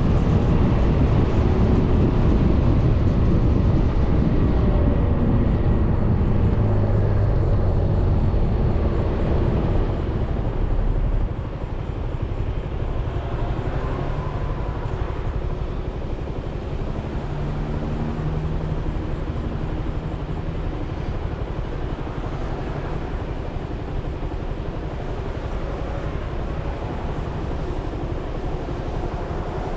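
Wind rushing over the microphone along with the running and road noise of a Suzuki Burgman 400 scooter on the move. The rush drops off suddenly about eleven seconds in and stays lower.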